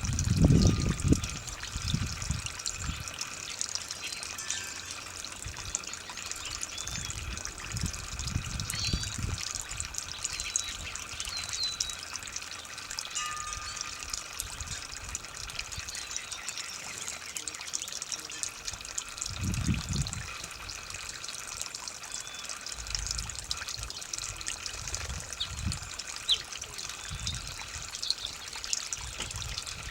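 Water from a garden hose trickling steadily onto the ground under a tree, with a few faint short bird chirps and some brief low rumbles.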